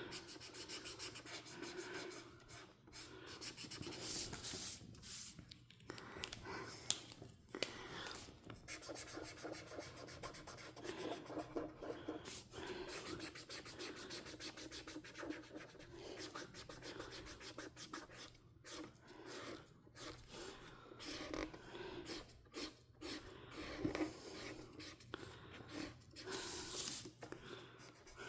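A coloring tool scratching and rubbing on a paper page in quick, continuous back-and-forth strokes as the page is colored in.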